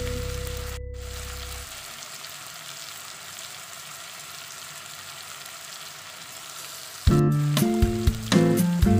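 Tomatoes and spices frying in oil in a kadai, a steady sizzling hiss. Background music fades out near the start and comes back suddenly about seven seconds in.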